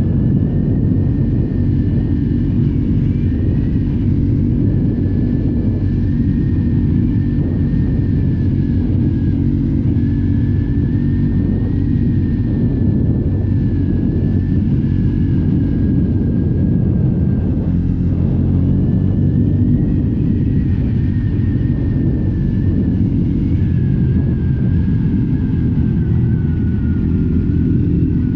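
Triumph Scrambler 400X's single-cylinder engine running at a steady cruise through its stock exhaust, heard from the rider's seat, with a thin high whine above it that wavers slightly in pitch.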